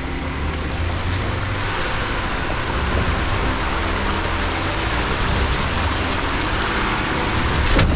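Jeep Gladiator driving slowly along a wet off-road trail: engine running steadily with the hiss of tyres on slick clay, and a single sharp knock near the end.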